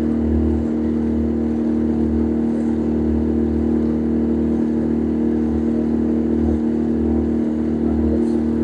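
Passenger boat's engine running steadily, heard on board: a constant hum with a low throb underneath.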